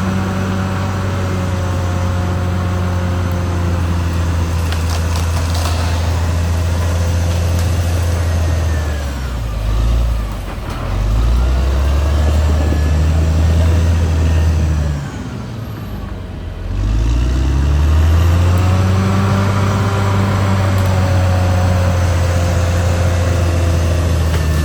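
Caterpillar D6R XL bulldozer's diesel engine running hard. Its pitch drops and climbs back twice, about ten seconds in and again about sixteen seconds in.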